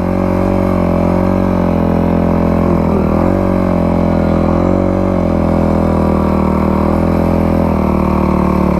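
Motor vehicle engine running at a steady speed, its pitch holding nearly constant with small rises and falls in the middle.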